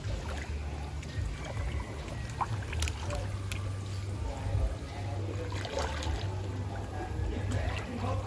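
Water sloshing and trickling, over a steady low rumble, with faint voices now and then.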